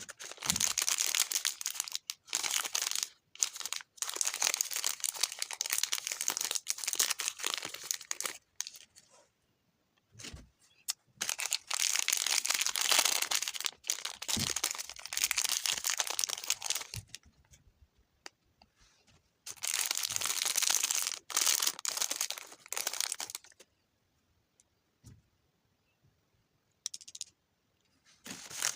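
Packaging being crinkled and torn open by hand, with a dense crackle in three long bouts separated by short pauses.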